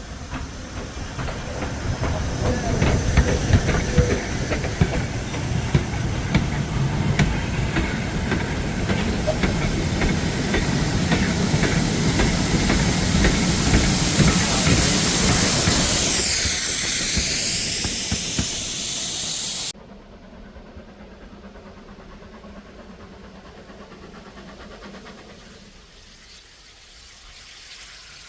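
Steam locomotive hauling a train past at close range: a loud hiss of steam over wheels clattering on the rails, building over the first few seconds. It cuts off abruptly about twenty seconds in, leaving a much quieter steady background.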